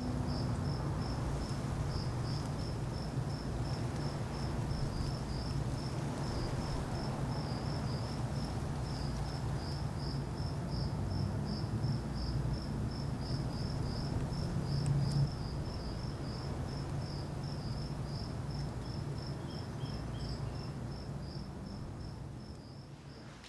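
Crickets chirping in a steady run of short, high chirps, a few a second, over a constant low rumble. A second, brief, lower trill is heard a few seconds before the end.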